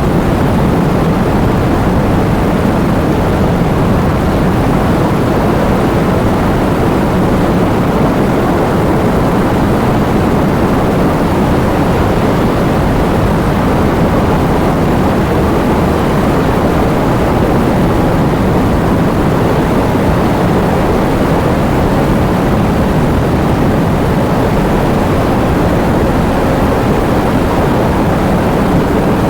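Heavy rain in a storm: a steady, dull rushing, strongest in the low end, with no separate thunderclaps.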